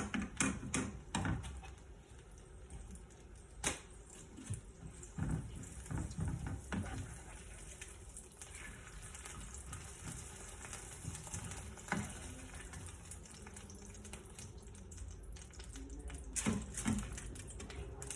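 Kitchen food-preparation handling: scattered light clicks and knocks of utensils and dishes, busiest in the first several seconds, over a faint steady hiss.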